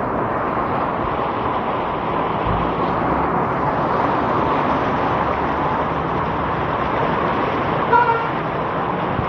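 Steady rushing noise of heavy rain and flowing floodwater, with a motor vehicle running low underneath. A short car-horn toot sounds near the end.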